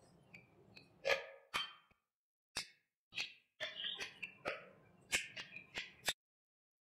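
Close-up mouth sounds of eating curry and rice by hand: wet chewing, lip smacks and finger-licking clicks in an irregular series, stopping shortly before the end.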